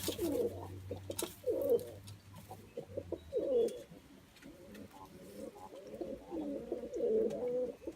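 Several doves cooing, one low, bending coo after another, some overlapping, with a few faint clicks among them.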